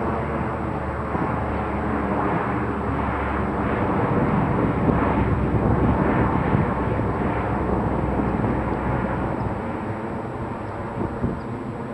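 Fixed-wing airplane flying overhead: the engine noise swells to its loudest about halfway through, then fades as it passes.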